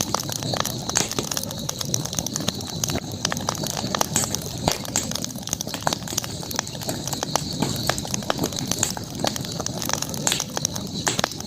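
Campfire crackling: irregular sharp pops and snaps of burning wood over a steady low rustle, with a steady high-pitched hiss in the background.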